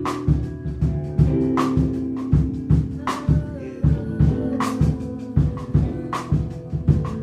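Live band instrumental: sustained keyboard chords over a drum kit playing a steady groove with kick, snare and rimshot hits. Near the end the drums drop out and the chords change.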